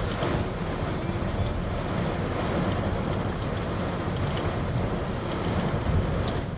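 Heavy thunderstorm rain drumming steadily on a car, heard from inside the cabin as a continuous wash of noise.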